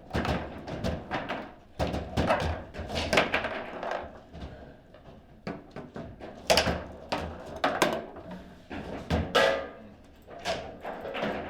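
Table football game in play: irregular hard clacks and knocks as the ball is struck by the players on the rods and bounces off the table walls, in quick clusters with short lulls.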